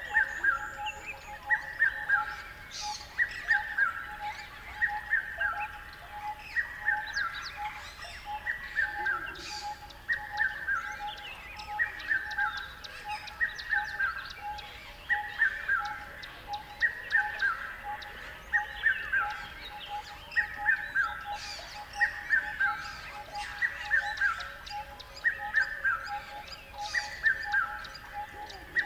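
A bird repeating a short phrase of a few whistled notes that step down in pitch, about once every second and a half. Under it runs a steady fast pulsing call, and other birds chirp here and there.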